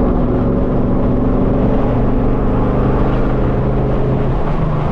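Straight-piped 5th-gen Chevrolet Camaro SS V8 running at a steady cruise, a loud, even exhaust drone whose pitch shifts slightly near the end.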